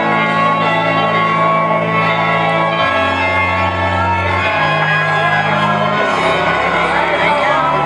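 Organ playing slow held chords that change every second or two. A crowd shouts and whoops over it near the end.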